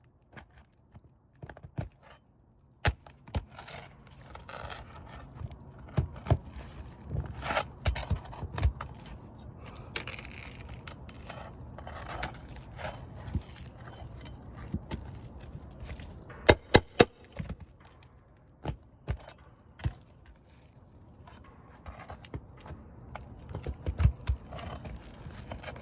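Roofing nails being pried loose from under 3-tab asphalt shingles: scattered sharp metal clicks and knocks over scraping, with a quick run of three loud knocks about two-thirds of the way through.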